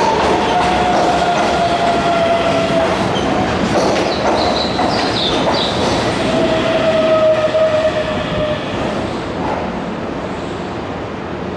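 Keihan electric train moving through the station platform: wheels clattering over the rail joints, with a high whine that slides slightly down in pitch, growing a little quieter near the end.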